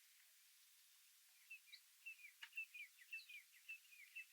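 Small bird chirping: after about a second and a half of near silence, a quick run of short, high, hooked chirp notes, several a second, that keeps going.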